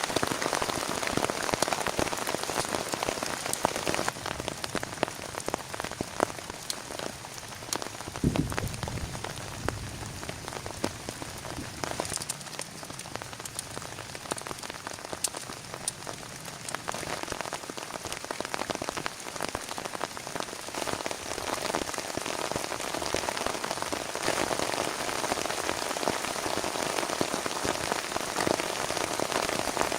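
Steady rain falling, made of many distinct sharp drop hits over a continuous wash, with a brief low rumble about eight seconds in.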